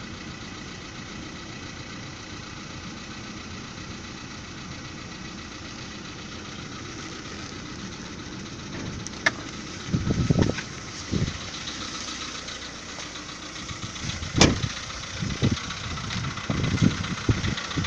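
VW Polo Sedan petrol engine idling steadily soon after a cold start, recorded to judge whether the knock it makes is piston knock. In the second half several louder knocks and bumps and one sharp click come over the idle.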